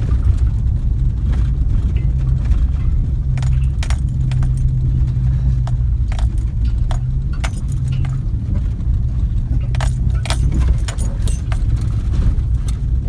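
A motor vehicle's engine running with a steady low rumble, overlaid by repeated light metallic clinks and jingles like loose keys or small metal parts rattling, thickest through the middle.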